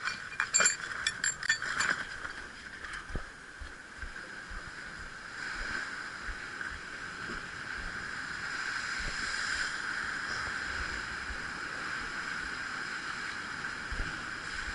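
A quick series of sharp metallic clinks and knocks in the first two seconds, like fishing gear handled on rock, then the steady drone of the ferry boat's engine, which grows louder about five seconds in.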